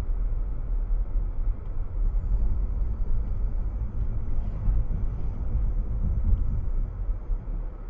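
Steady low rumble of a car driving along: engine and road noise, with no impacts.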